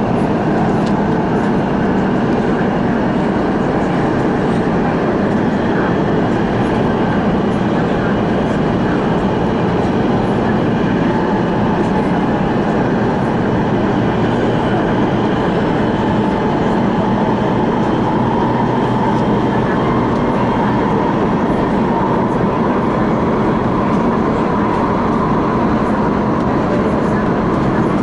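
A CRRC Changchun-built MTR West Rail Line electric train running steadily between stations, heard from on board: an even rumble of wheels and running gear, with a faint high tone that rises a little past the middle.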